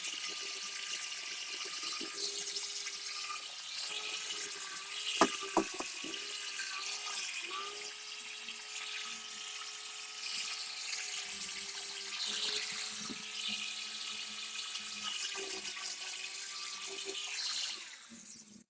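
A small motor-driven tool running steadily with a strong hiss and a steady whine, its pitch dipping and wobbling briefly about five to seven seconds in, with a few sharp clicks, before it stops near the end.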